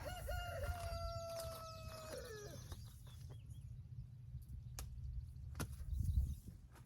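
A rooster crowing once: one long, held call lasting about two and a half seconds that drops in pitch as it ends. A few faint sharp clicks follow later.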